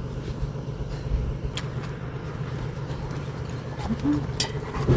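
A walk-behind power tiller's engine running steadily in the background, a continuous low hum. A few light clicks sound over it.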